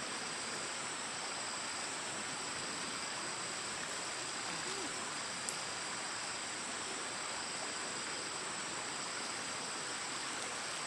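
Insects, crickets or similar, trilling steadily in a high-pitched drone, with a second insect chirring in pulses about a second long. An even hiss lies underneath, and there is one small click about halfway through.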